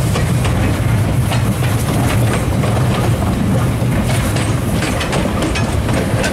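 Heritage train running slowly on the rails behind steam locomotive Ww 644, heard from the balcony of a passenger car: a steady rumble of wheels and running gear with scattered clicks.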